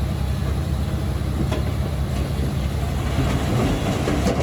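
Heavy-equipment diesel engine running steadily, with a sharp knock about a second and a half in, another near the end, and some rattling in the last second.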